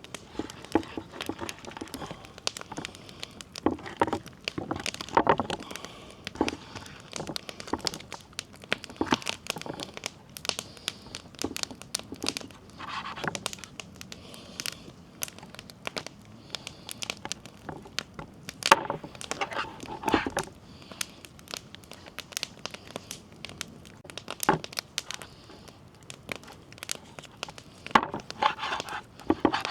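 Crinkling and tearing handling noises with scattered irregular knocks and clicks, typical of ingredients being unwrapped, handled and prepared by hand.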